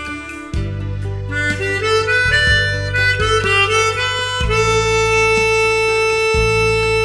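Harmonica playing a slow, lyrical melody over a low backing accompaniment. Several shorter notes give way to one long held note about halfway through.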